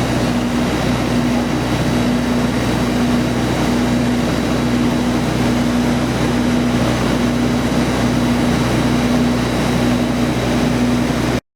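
Steady loud machinery drone with a constant low hum and a faint high whine, cutting off abruptly near the end.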